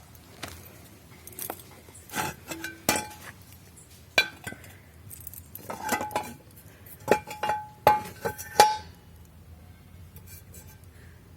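Hard objects clinking and clanking together in an irregular series of knocks, several with a short ringing tone, the loudest near the end before they stop about nine seconds in.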